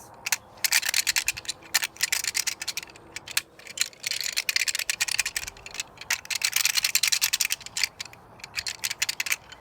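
Deer rattle bag worked in the hands: several bursts of rapid clacking and rattling with short pauses between them, imitating whitetail bucks fighting with their antlers during the rut.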